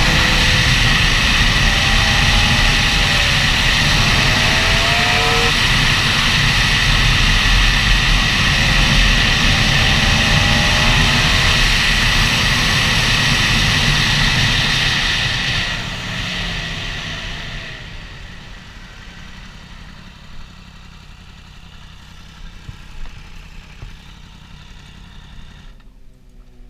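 Motorcycle engine running and revving up and down with a loud rushing noise, then falling to a much quieter level about sixteen seconds in.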